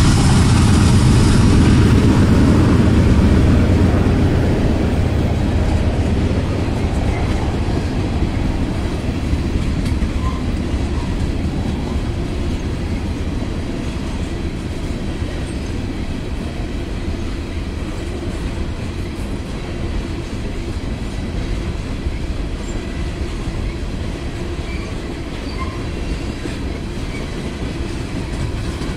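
Freight train of empty ethanol tank cars rolling past, its wheels clattering steadily over the rails. A low diesel locomotive rumble fades out over the first few seconds as the locomotives move away.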